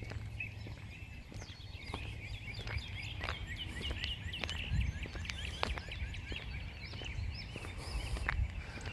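Many songbirds chirping and singing at once, a dense run of short chirps throughout, over a steady low rumble.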